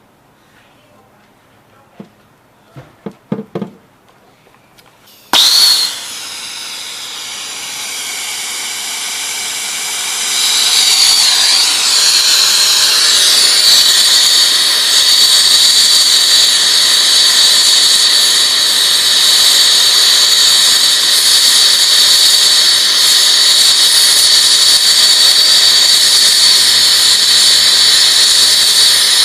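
A few faint clicks, then a brazing torch lights with a sudden pop about five seconds in and its flame hisses steadily. The hiss grows louder about ten seconds in and holds as the copper pipe is heated for brazing.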